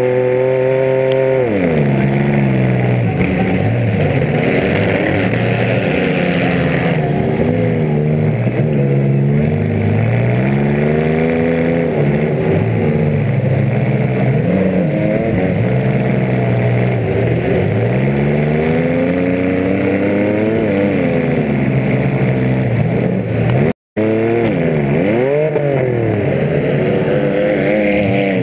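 Compact demolition derby car's engine heard from inside the car, revving up and dropping back over and over as the car is driven hard around the arena. The sound cuts out for a moment about 24 seconds in.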